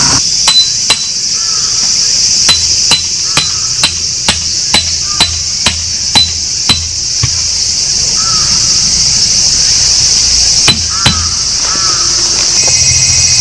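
Sharp hammer strikes come in runs of about two a second: a pair near the start, a steady run of about ten, then another pair near the end. Behind them runs a constant high-pitched drone of insects.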